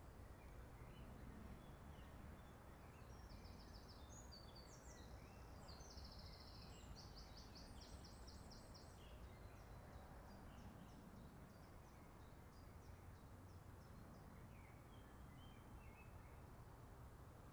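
Near silence with faint birdsong: small birds trilling and chirping, busiest from about three to nine seconds in and sparser after, over a steady low rumble.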